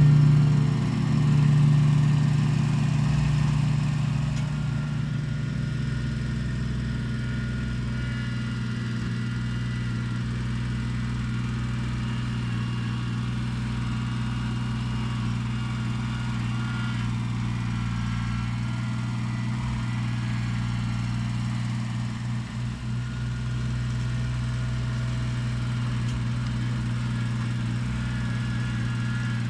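Kubota BX23S compact tractor's three-cylinder diesel engine running steadily while it digs footings with the backhoe.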